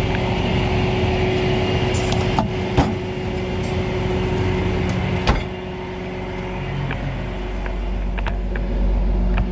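Tow truck's engine running with a steady low hum, and sharp clicks or knocks three times, about two and a half, three and five seconds in.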